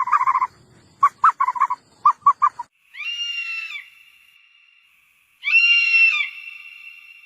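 Animal calls: a quick series of short chirps, then two longer high-pitched calls a couple of seconds apart, each trailing off in a fading held tone.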